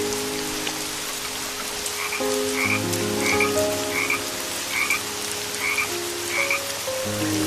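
Steady rain, with a frog croaking about seven times in an even series over soft sustained notes.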